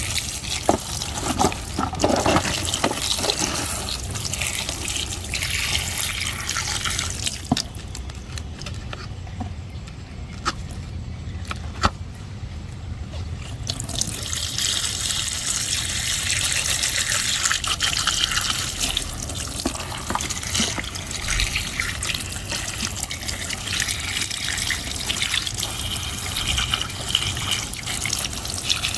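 Running water splashing and trickling as muddy toy vehicles are washed, with a few small knocks; the hiss of the flow eases for several seconds in the middle, then picks up again.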